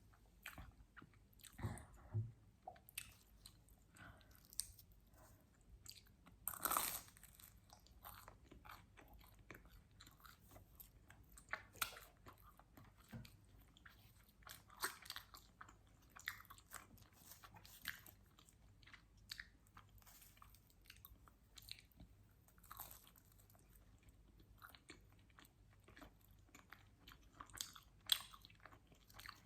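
Close-miked chewing and biting of pizza, with soft, irregular crunches and wet mouth clicks. There is a louder crunchy bite about seven seconds in and another near the end.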